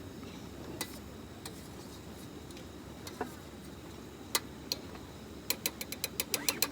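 Metal utensil clinking against a camp cooking pot while soup is being stirred: a few separate clinks, then a quick run of about eight clinks a second near the end.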